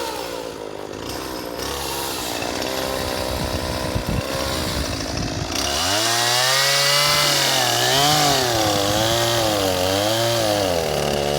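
A struggling two-stroke chainsaw cutting into a tree trunk. It runs low and rough at first, then about halfway through it revs up higher and its pitch wavers up and down as the chain bogs and picks up speed in the wood. The saw barely works and only cuts well when kept at high revs.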